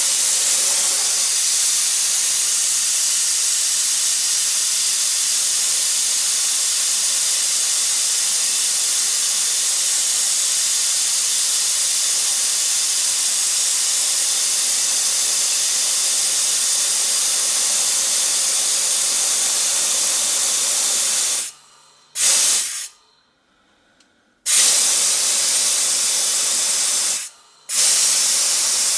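Compressed air hissing out of the HBM 6 PK 150-litre compressor's tank through an open outlet as the tank is emptied, with the motor switched off. The loud, steady hiss cuts off abruptly after about twenty seconds, then stops and starts again twice near the end.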